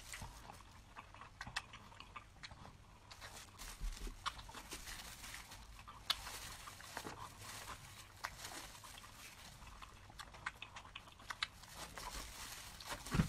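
Close-miked eating sounds: chewing and mouth noises with many small scattered clicks and crackles, and a low thump near the end.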